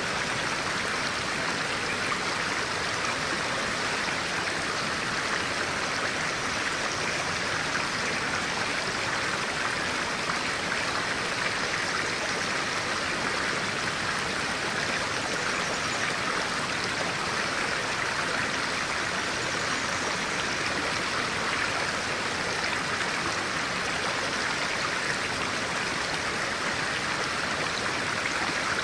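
Stream of clear water running steadily, an even rushing with no breaks.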